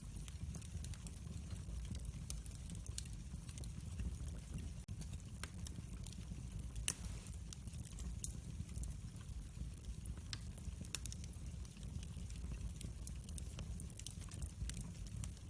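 Wood fire burning: a steady low rumble of flames with scattered crackles and pops of burning wood, one louder pop about seven seconds in.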